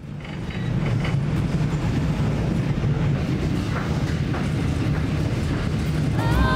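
TAZARA passenger train running along the track: a steady noise of wheels on rail, fading in at the start. Music comes in near the end.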